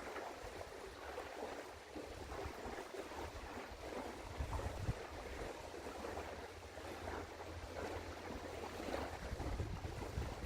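Wind gusting on an outdoor microphone in uneven low rumbles, over a steady hiss of wind and water.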